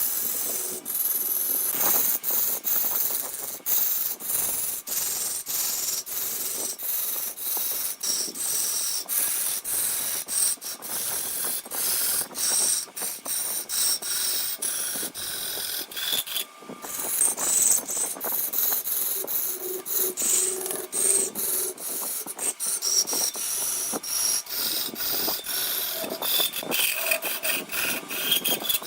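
Turning tool cutting wood spinning on a lathe: a continuous scraping rasp broken by rapid ticks, with a brief break a little past halfway.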